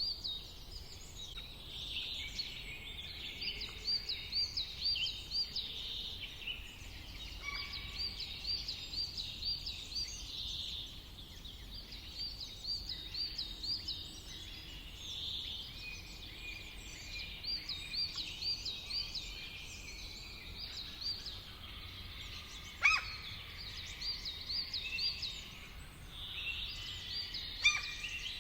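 Several songbirds singing, one repeating a quick phrase of rapid high, evenly spaced notes about every four seconds over a chorus of other chirps and whistles. Two sharp clicks stand out, one about two-thirds of the way through and one near the end, over a steady low background rumble.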